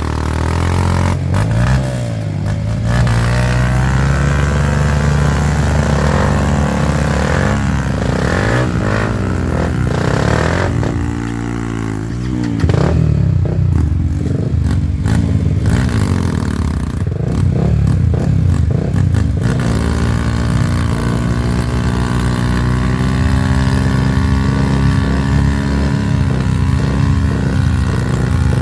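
Off-road trail motorcycle engines revving, their pitch rising and falling again and again, with more than one bike running at times, as the bikes labour through mud.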